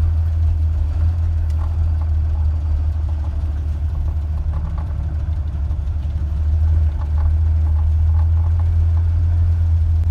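Vehicle engine running at low speed, heard from inside the cabin as a steady low drone that gets a little louder about seven seconds in.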